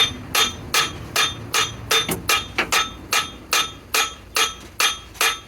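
A hammer striking steel in a steady rhythm, about two to three blows a second. Each blow rings with a bright metallic tone.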